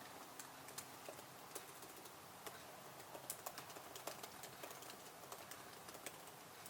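Typing on a computer keyboard: quiet, irregular key clicks, several a second.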